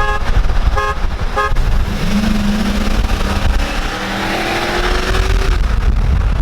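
Vehicle horn honked three short times, then a pickup truck engine accelerating hard, its pitch climbing steadily for about three and a half seconds over road and wind noise.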